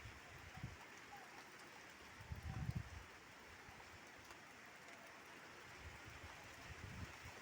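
Steady rain falling, a faint even hiss. About two and a half seconds in, a brief low rumble of a gust of wind hits the microphone.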